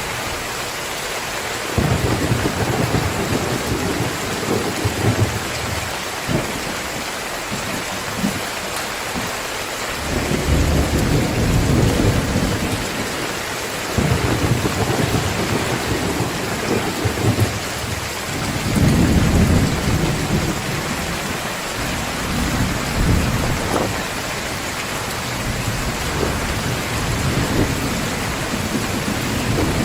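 Heavy rain pouring steadily, with low rolls of thunder rumbling in several times, the first about two seconds in and the loudest a little past the middle.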